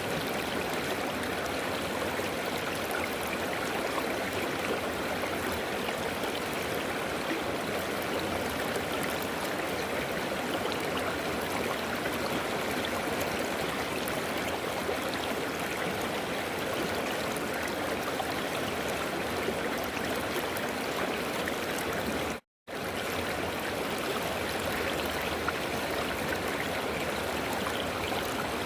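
River water flowing steadily over rocks, an even rushing with a trickling surface. About three-quarters of the way through, the sound cuts out to silence for a split second, then resumes.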